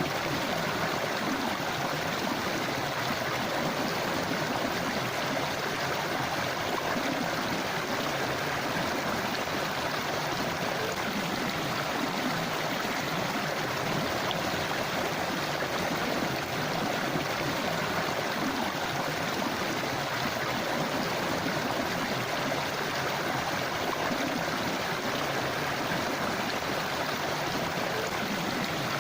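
Forest river rushing and gurgling over rocks in a steady flow.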